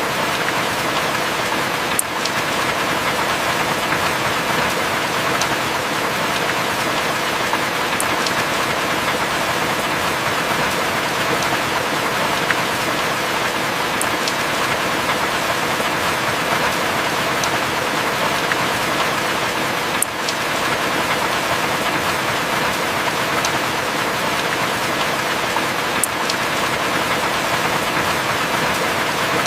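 Heavy rain falling steadily, an even dense hiss, with faint sharp ticks about every six seconds.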